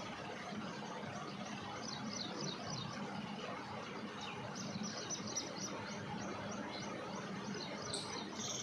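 Small birds chirping, with rapid runs of short, high, falling chirps, over a steady background of outdoor noise and a low hum.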